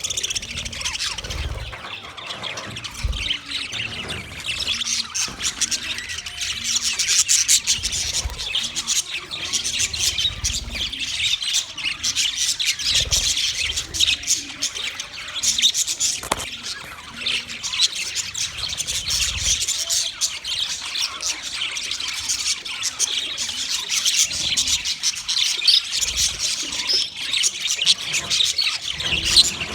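Male budgerigars chirping and chattering in a continuous fast warble with rapid clicks and squawks, the kind of song that males give in courtship.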